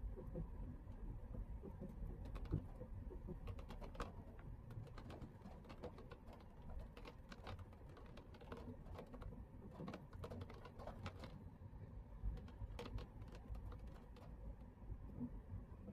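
Inside a car's cabin while driving in the rain: irregular light ticks of raindrops striking the windshield and roof over a low, steady road rumble.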